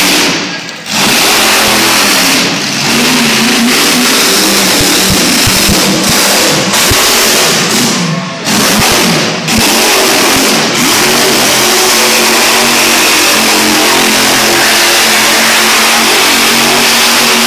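Monster truck engine running loud and revving hard, easing off briefly about a second in and again about eight seconds in.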